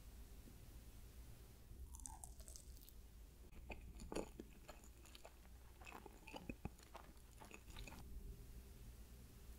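Quiet chewing of a bite of soft chocolate ganache layer cake: a run of small wet, crackly mouth clicks from about two seconds in, stopping about a second and a half before the end.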